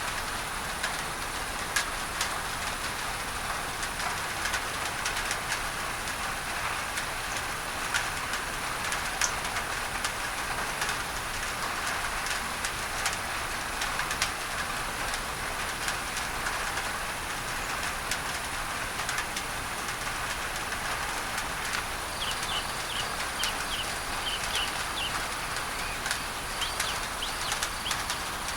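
Rain pattering on a tin roof, with many sharp drop ticks over a steady hiss of mixed-in pink noise. From about three-quarters of the way through, a bird chirps in short, quickly repeated high notes.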